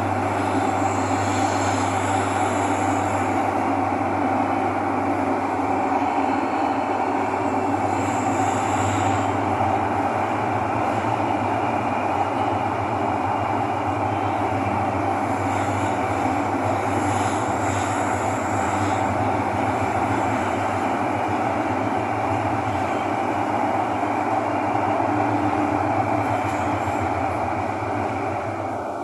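Thomson-East Coast Line metro train running between stations, heard from inside the car: a steady rolling rumble with a low motor hum and a faint intermittent high hiss. It eases off slightly near the end.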